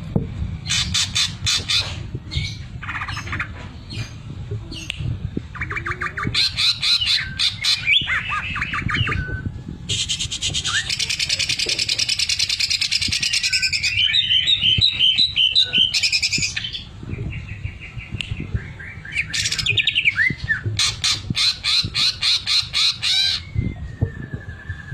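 Cucak ijo (green leafbird) singing a varied song of fast clicking trills and buzzy rattles, with a long dense rattle in the middle: the sewing-machine mimicry ('isian mesin jahit') the bird is prized for.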